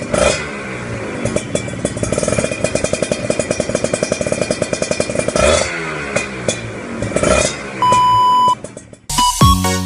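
Kawasaki Ninja 150 RR two-stroke single running through a stainless steel aftermarket exhaust, idling with a rapid crackling beat and blipped up three times. A short steady beep sounds near the end, then electronic music starts.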